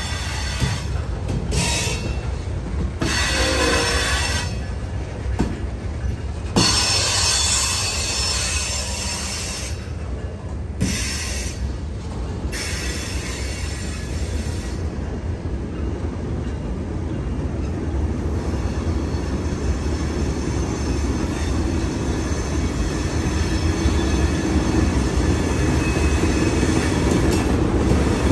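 Loaded freight train rolling through a rail yard: a steady low rumble of the cars on the rails, with wheels squealing on and off through the first half and a few sharp clanks.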